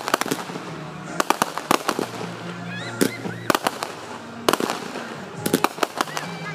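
Aerial fireworks bursting: clusters of sharp bangs and crackles, several shells in quick succession, recurring every second or two.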